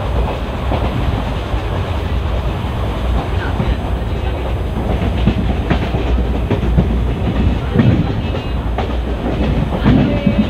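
ICF passenger coach of an express train running along the track: a steady rumble of wheels on rail, with a few sharp clacks as the wheels pass over rail joints.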